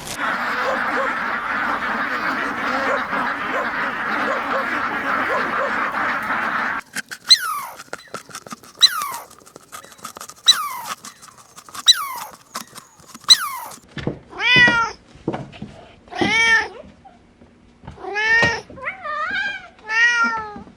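A cat meowing over and over. First come five short, high mews that fall in pitch, then longer, fuller meows that rise and fall. The first part holds a steady noisy background with no clear source.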